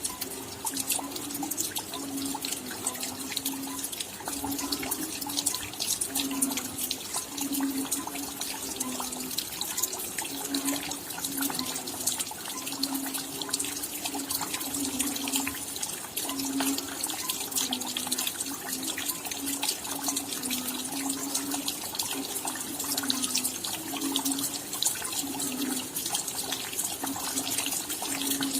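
Steady rain: a dense patter of raindrops with a low, irregular burble of running water beneath it.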